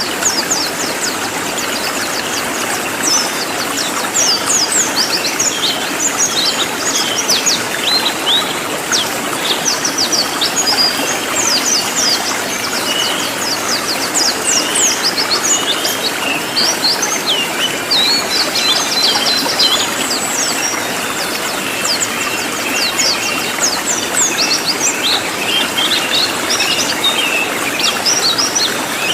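Cililin songbird calling in loud, densely packed rapid high chirps with no gaps, over a steady rushing background noise.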